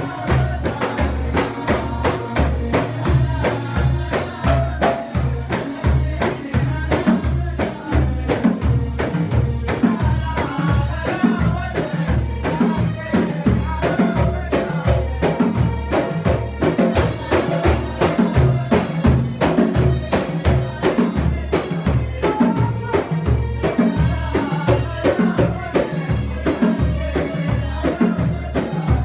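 Samri folk music: frame drums beat a steady rhythm of about two strokes a second under group singing.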